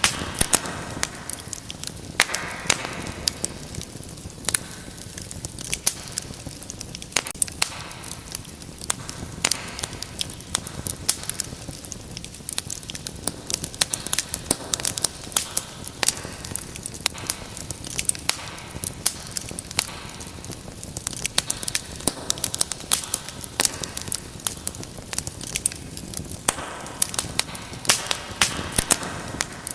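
Wood fire in a fireplace crackling steadily, with many sharp, irregular pops and snaps over a soft hiss of flame.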